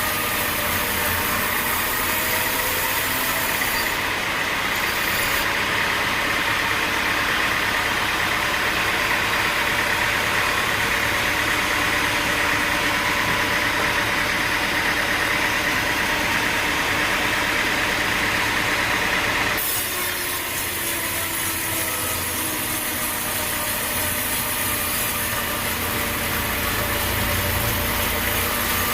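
Sawmill machinery running steadily with an engine-like drone. About two-thirds of the way through, the sound changes abruptly.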